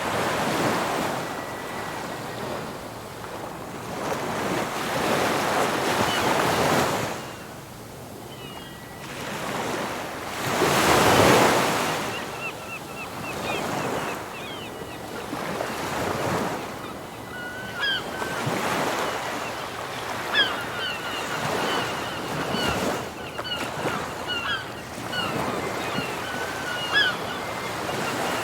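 Ocean waves breaking and washing in, in repeated surges. From about halfway through, gulls call over them in many short, high cries.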